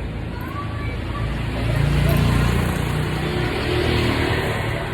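A motor vehicle passing, a low rumble that swells to its loudest about two seconds in and then fades.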